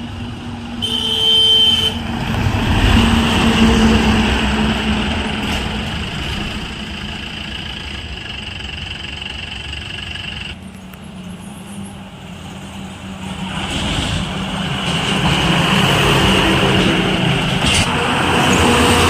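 Heavy trucks driving past on a road, engine and tyre noise swelling twice as vehicles go by, with a short horn note about a second in.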